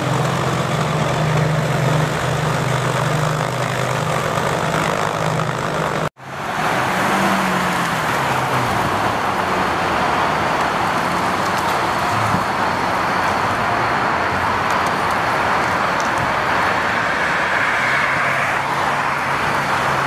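Lamborghini Aventador's V12 engine running steadily with the car standing still. After an abrupt cut about six seconds in, the car pulls away and drives off with a louder, rougher engine sound, and the note rises near the end.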